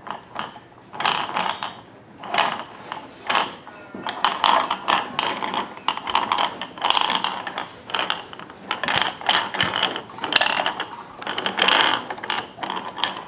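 Wooden toy stand mixer being cranked by hand, its gears clattering and ratcheting in repeated, uneven bursts.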